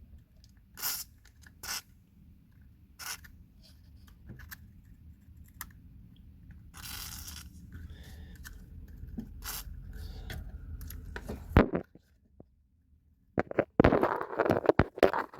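Scattered clicks, knocks and scraping of tools and metal parts being handled, over a low rumble that stops abruptly about two-thirds of the way through; after a short pause a dense run of clattering and scraping follows near the end.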